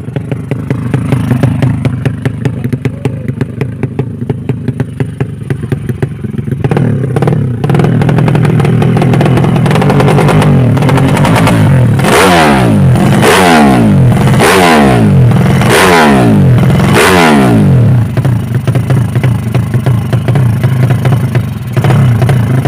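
Motorcycle engine idling, then held at raised revs and blipped sharply five times in quick succession, each rev rising and falling back, before it drops back to a steady idle.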